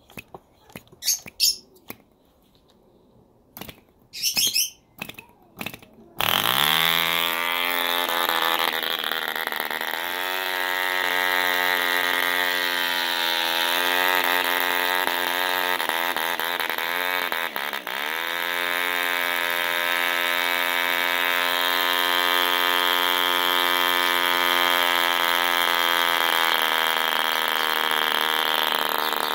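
Movo D2 two-stroke model diesel engine with a 10x5 propeller: a few sharp clicks as it is flicked over, then it fires about six seconds in, climbs quickly to high revs and runs steadily at full speed, sagging briefly once a little past halfway before picking back up.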